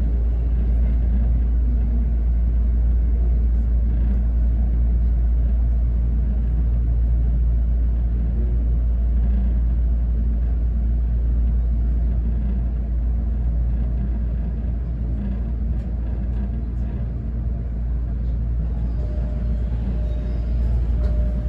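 Interior running noise of a JR East E217 series Green car: a steady deep rumble from the wheels and bogies on the track. Loudness eases slightly partway through, and a faint thin whine comes in near the end.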